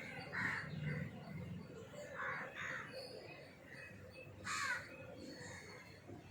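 Birds giving about five short, harsh calls, the loudest about four and a half seconds in.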